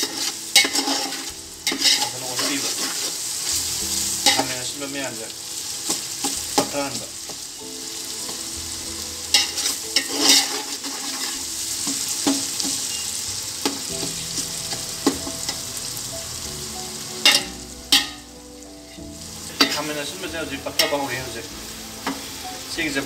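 Spiced meat, onion and tomato masala frying and sizzling in a metal pot, stirred and scraped with a metal spatula, giving repeated short scrapes and clinks against the pot over a steady hiss. The hiss briefly dies down about three-quarters of the way through.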